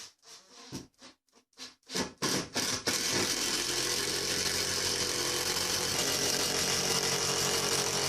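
Electric power tool blipped in several short bursts, then run steadily at full speed with a constant motor whine.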